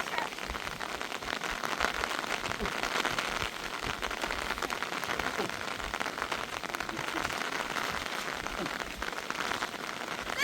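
Rain falling steadily, with many small drops striking a surface.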